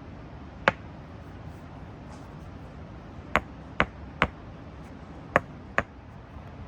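Six sharp knocks, struck singly: one about half a second in, then three evenly about half a second apart, then two more close together near the end.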